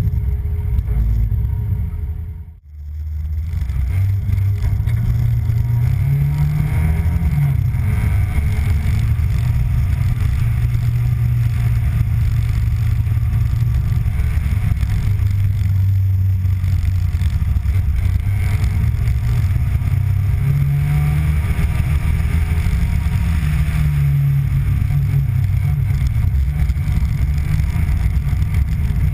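Rally car engine running hard while driving, its pitch rising and falling with throttle and gear changes, heard from a camera mounted on the bonnet. The sound breaks off briefly about two and a half seconds in.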